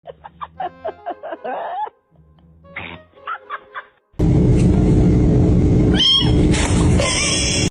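Cat meows and yowls over music. About four seconds in the sound cuts abruptly to a much louder, noisier clip, which has a falling high-pitched cry in the middle.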